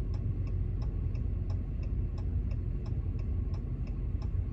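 Vehicle turn-signal indicator ticking steadily, about three ticks a second, over the low rumble of the truck idling.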